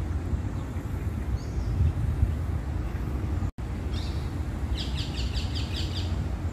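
Outdoor ambience with a steady low rumble of wind on the microphone; about two thirds of the way through, a small bird gives a quick run of about eight chirps, with a couple of single chirps before it. The sound drops out for an instant near the middle.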